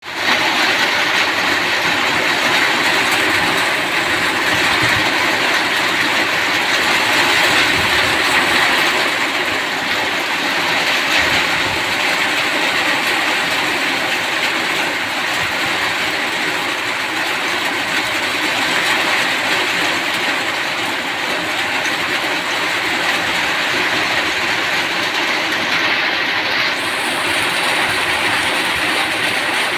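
Rain falling steadily: a dense, even hiss that holds at the same level throughout.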